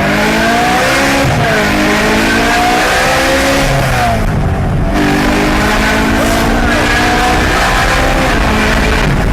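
Car engine revving hard, its pitch rising and falling in repeated sweeps, with tyres squealing. There is a short break in the sound about four and a half seconds in.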